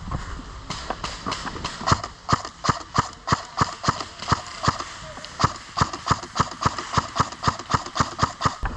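Running footsteps, with the knocks of the player's gear on each stride, about three steps a second, starting about two seconds in.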